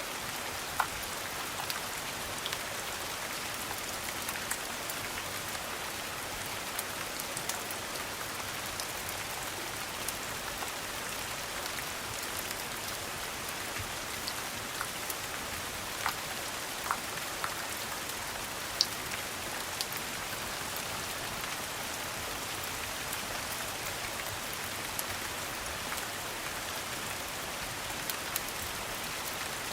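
Steady rain falling, an even hiss with scattered sharp ticks of individual drops or small crackles.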